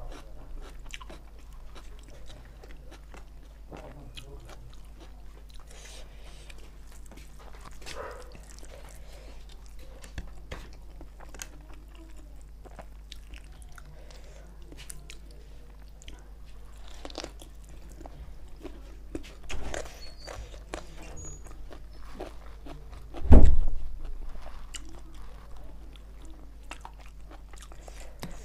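Close-miked eating by hand: chewing and biting with wet mouth smacks and clicks, and fingers working rice and spicy chicken on a plastic plate. A loud low thump about three-quarters of the way through, with a smaller one a few seconds before it.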